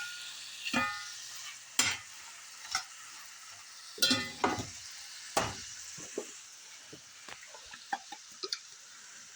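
Shrimp, onion and chicken frying in an iron skillet with a steady sizzle, while a utensil stirs and scrapes the food around the pan in a series of sharp, irregular strokes.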